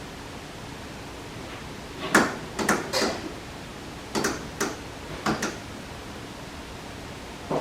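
A series of hard knocks and clacks, about seven in quick clusters in the middle and one more near the end, over a steady hiss, typical of handling and adjusting a wall-mounted TV and its bracket.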